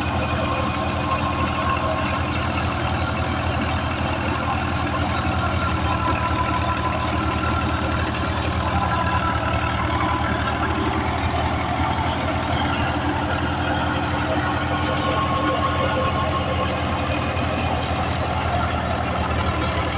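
Al-Ghazi tractor's diesel engine running steadily at an even speed.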